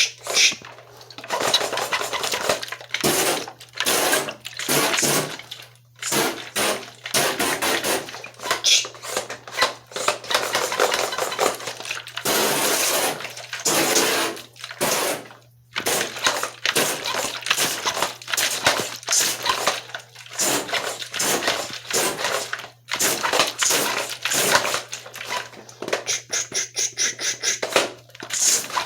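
Toy assault rifle firing in repeated bursts of rapid rattling clicks, each lasting from under a second to about two seconds with short gaps between, over a steady low hum.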